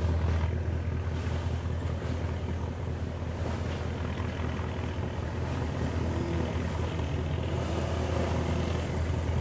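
A river boat's diesel engine runs steadily, a continuous low drone with a haze of water and running noise over it.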